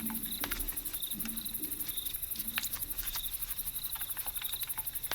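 Night insect chorus of crickets: a fast, steady high-pitched trill with a shorter chirp repeating about once a second, cutting off abruptly near the end.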